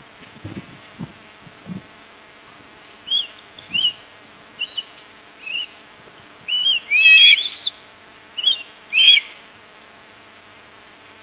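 A bird giving a series of short, high chirps, about a dozen over six seconds, loudest about seven seconds in, over a faint steady buzz. A few soft low knocks come in the first two seconds.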